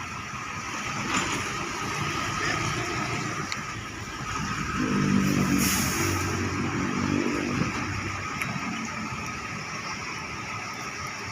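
Road traffic on a wet road in the rain: a steady hiss of tyres and engines, with one motor vehicle's engine growing louder and passing close about halfway through.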